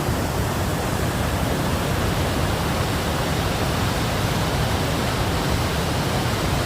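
White-water river or waterfall rushing: a loud, steady wash of water noise, loud enough that the speaker has to shout over it.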